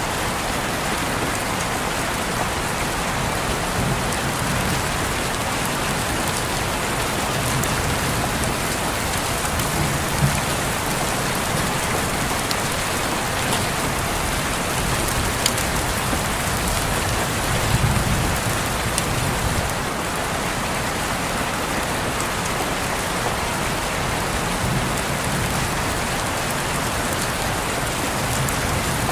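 Steady rain on a window, an even hiss with scattered drop ticks and a few soft low swells.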